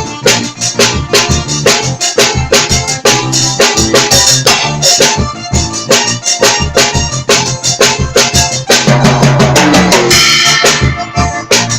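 Drum kit played in a steady, busy groove of kick, snare and cymbals, over sustained bass and keyboard notes, with a cymbal burst about ten seconds in.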